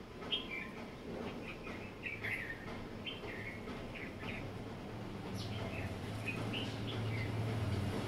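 Small birds chirping irregularly, short high calls scattered through. A low steady hum comes up in the second half.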